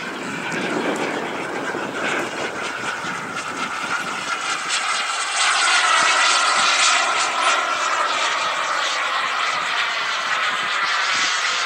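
Turbine of a radio-controlled Rafale model jet whining in flight, loudest about six seconds in as it passes, with the pitch shifting as it goes by.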